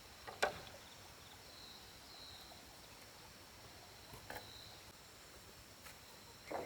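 Faint, steady insect chirring in the background, broken by a few short sharp knocks: the loudest about half a second in, another just past four seconds, and one at the end.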